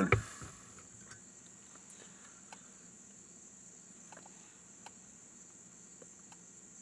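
Steady high-pitched chirring of crickets, with a few faint scattered ticks.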